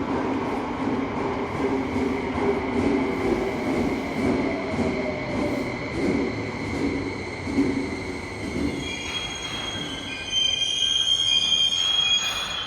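Tōzai Line subway train running on the rails, a steady rumble of wheels and motors, with a tone sliding down in pitch a few seconds in. High-pitched wheel squeal sets in about nine seconds in and grows louder near the end.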